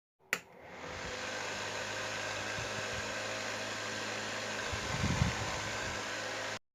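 Homemade mini table fan's small electric motor switched on with a click, spinning up over about a second and then running with a steady whir and low hum. It stops abruptly near the end.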